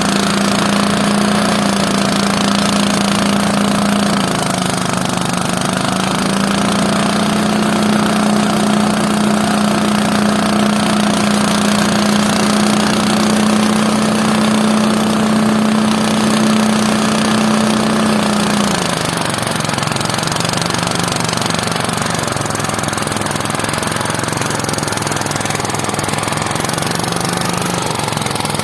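A farm machine's engine running steadily with a rattling beat. Its pitch dips briefly about four seconds in, then drops about two-thirds of the way through and stays lower and slightly quieter, as the engine slows.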